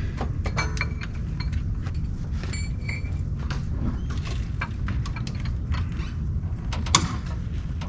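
Hand tools clinking and knocking on metal car parts while bolts are worked loose, with a brief ringing clink about a third of the way in and a sharper knock near the end, over a steady low rumble.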